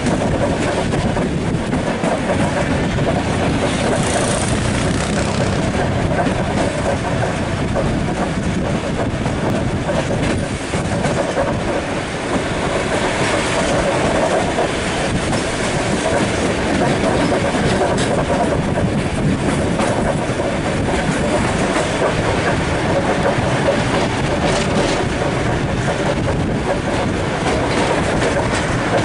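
Train running along the track as it pulls out of the station, a steady sound of wheels on rails.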